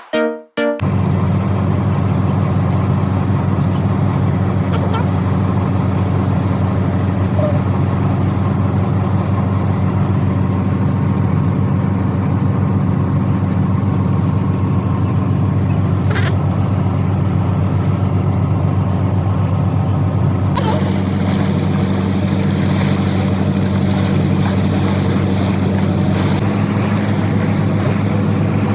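Charter fishing boat's engine running steadily underway, a loud, even low drone heard from on board. The sound changes slightly about 20 seconds in.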